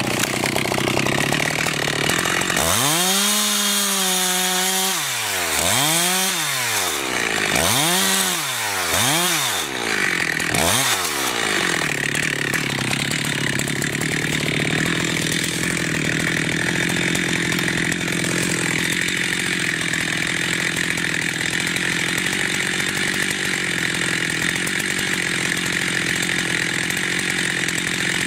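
Two-stroke chainsaw engine revved up and let back down about four times, then held running steadily at high speed.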